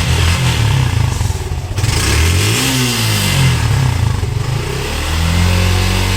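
Suzuki Gixxer motorcycle engine running just after being started, revved briefly once about halfway through, then settling into a steady idle near the end.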